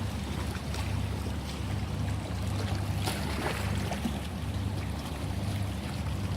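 Sea waves washing and sloshing, with a few sharper splashes about three seconds in, over a steady low hum.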